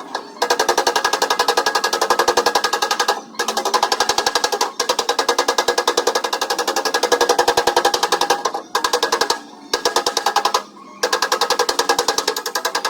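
Rapid, even hammer taps on a Ford Ranger's steel door panel, which rings with each blow, as dents are knocked out. The tapping comes in runs with several short pauses, the longest about two-thirds of the way through.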